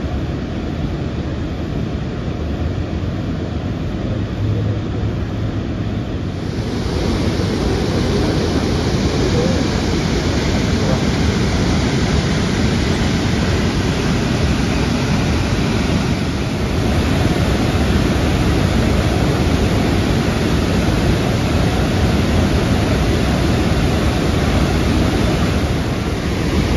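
Iguaçu Falls roaring: a loud, steady rush of falling water that grows louder and brighter about six and a half seconds in.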